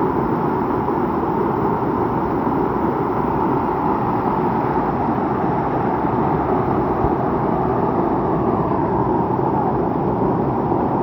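Steady rushing of a mountain stream, a loud even wash of flowing water with no break or change.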